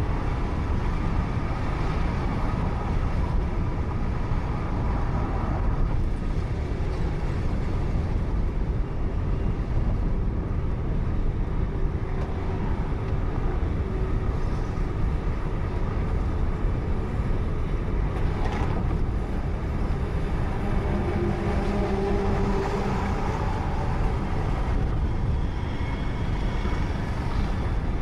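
Steady road and engine noise of a car driving on a highway, picked up by a dashcam mounted inside the car, with a faint short tone heard twice.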